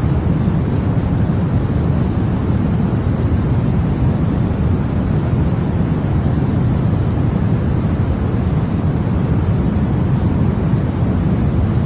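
Continuous white noise played as a sleep aid for babies: a steady, even rush without breaks, weighted toward the low end so it sounds deep and rumbling rather than hissy.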